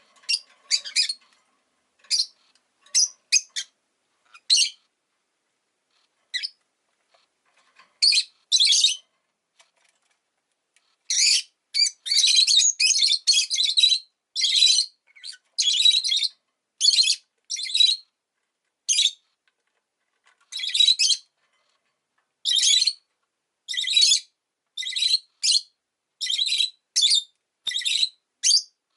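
Rosy-faced lovebird (Agapornis roseicollis) chirping in short, shrill calls. The calls are scattered at first, then come thick and fast from about a third of the way in.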